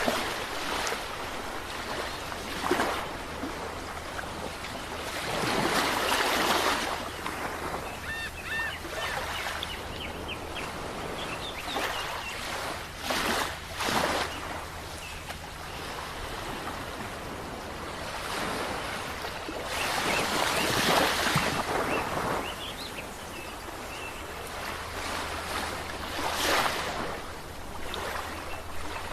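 Ocean waves breaking on a shore, a steady rush of surf that swells into a louder wash every five to seven seconds.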